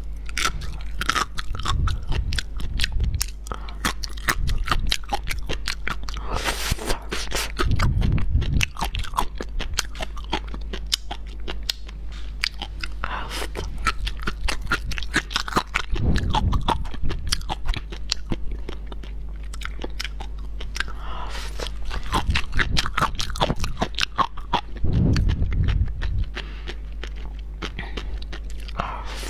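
Close-miked chewing of raw sea grapes (green caviar seaweed), the small beads popping and crunching in rapid crackles, with a steady low hum underneath.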